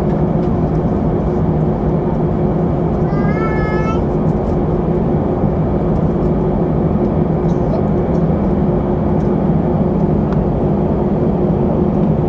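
Steady engine and airflow noise inside the cabin of an Airbus A319 airliner, with a constant hum, heard during its departure. A brief wavering high-pitched sound comes through about three seconds in.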